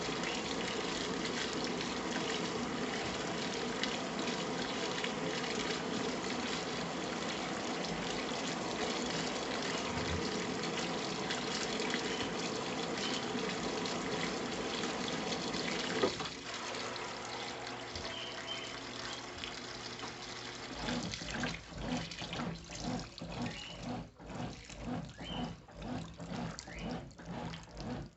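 Brastemp Intelligent 7 kg top-load washing machine filling with water in a steady rush. About halfway through, the inlet valve shuts with a click and the fill stops. The motor hums, and then the agitator starts washing with a regular rhythm of strokes.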